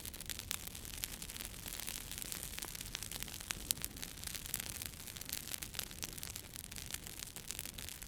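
Wood campfire burning: a steady hiss of flames with frequent sharp, irregular crackles and pops from the burning logs.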